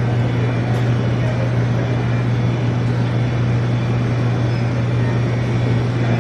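Steady vehicle noise: a constant low hum with an even road hiss over it, as from a car driving.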